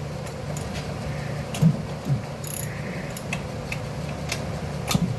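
Irregular sharp metal clicks and knocks of hand tools working on a small engine, about ten of them, over a steady low hum.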